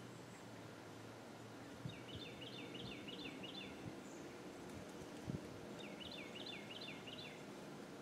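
A small songbird singing two quick runs of five or six repeated high, downslurred notes, over faint outdoor background noise with a couple of soft thumps.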